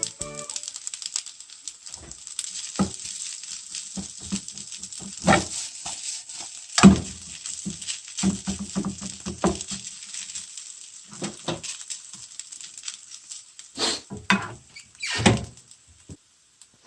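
Fried rice sizzling in a frying pan with a steady hiss, as a spatula scrapes and knocks against the pan at irregular moments. The sizzle dies away about a second before the end.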